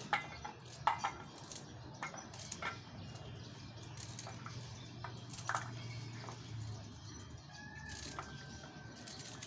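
Knife cutting elephant foot yam stems into small pieces on a board: several sharp knocks in the first three seconds, then a few sparser ones.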